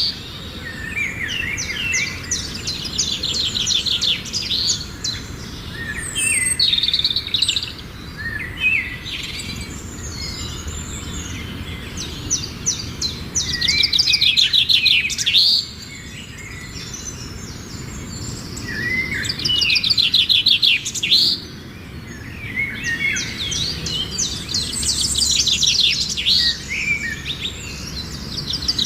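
Birds singing in repeated bouts of rapid chirping trills, over a steady low background noise.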